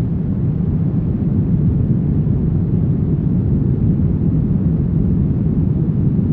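Brown noise: a steady, deep rushing noise with most of its weight in the low end and little treble, unchanging throughout.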